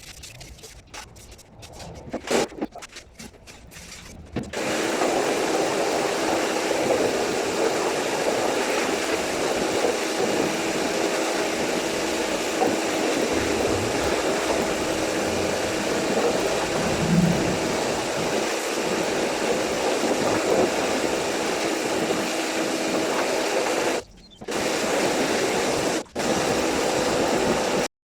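Electric polishing machine running steadily as it buffs car paint, cutting out briefly twice near the end.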